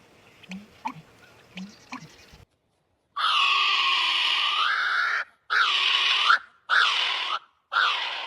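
Bird calls of an unidentified species: first a faint series of short low calls about every 0.7 seconds, then, after a brief cut, a loud call lasting about two seconds followed by three shorter calls.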